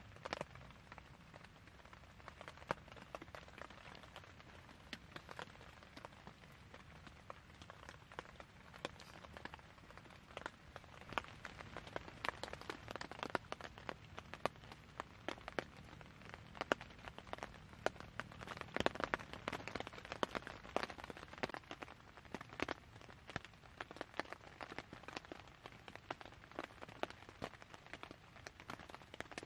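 Steady rain with many irregular drop hits tapping on tent fabric, heaviest around the middle.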